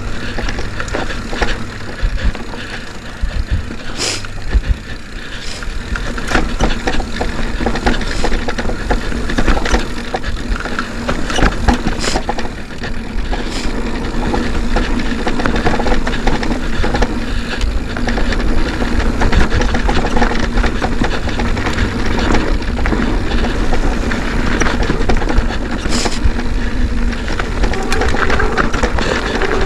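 Mountain bike riding over a dirt trail, heard from a camera on the bike or rider: steady rumble of wind on the microphone and the bike rattling over the ground, with a few sharp knocks.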